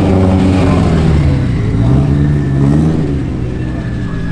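Car engine revving in short blips, its pitch rising and falling twice, then settling to a steady idle about three seconds in.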